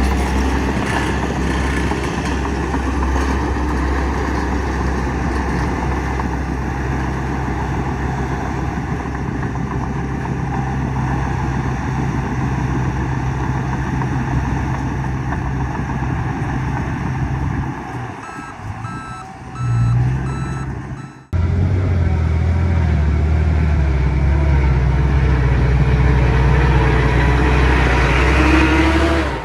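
Heavy diesel machinery running steadily: a bulldozer working with a truck. A reversing alarm beeps in a steady repeating pattern for about three seconds, two-thirds of the way through. The sound then cuts off abruptly and resumes with the engine louder.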